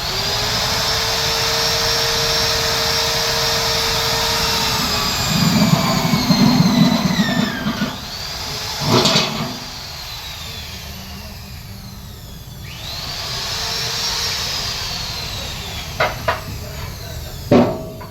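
Electric power tool motor running with a steady high whine, biting into material for a couple of seconds and then winding down. A knock follows, the motor runs up again briefly and winds down, and two sharp clicks come near the end.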